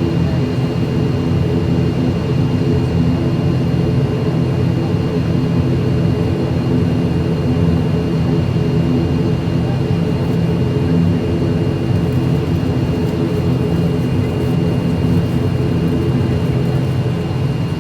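ATR 72-600 turboprop airliner's engines and propellers running at high power: a loud, steady drone with evenly spaced low tones and a constant high whine.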